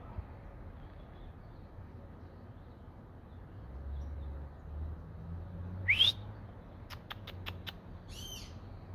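A loud bird call rising in pitch about six seconds in, followed by a quick run of about six sharp taps and then a few high, arched chirps.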